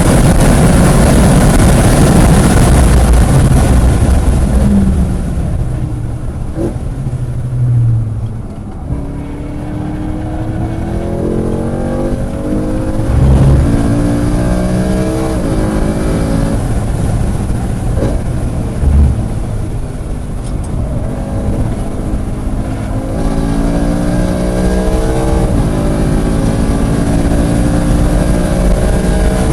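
Car engine on a lap of a road course: flat out at first, then backing off, then pulling up through the gears with rising pitch and a drop at each upshift. Two brief thumps come partway through.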